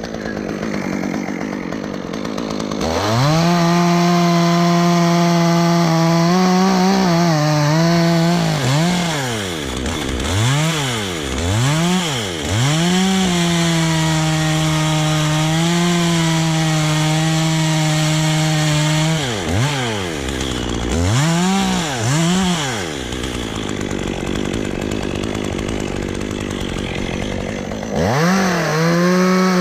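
Chainsaw held at full throttle, cutting into dead elm wood. The engine note dips and climbs back up several times between pushes, drops away for a few seconds near the end, then comes back up to full speed.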